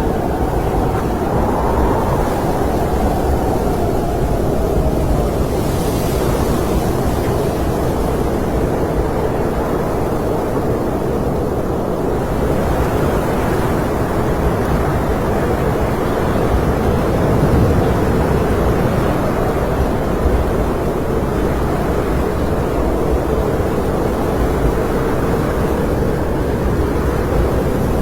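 Blizzard wind blowing steadily with a deep rumble and a howling whistle that slides down in pitch over the first few seconds, then holds at a lower note.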